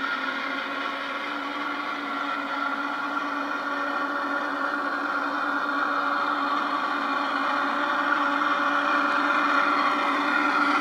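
Garden-scale model locomotive's electric motor and gearbox whirring as it runs along the track, a steady whine that slowly grows louder as it approaches.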